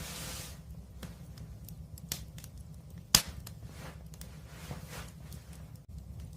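Wood fire burning with a steady low rumble and scattered crackles. There is one sharp pop a little after three seconds and a smaller one about two seconds in, with brief hissing swells near the start and around five seconds.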